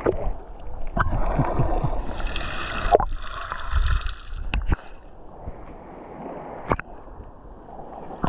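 Sea water sloshing and splashing, louder in the first half, over a constant low rumble, with a few sharp clicks.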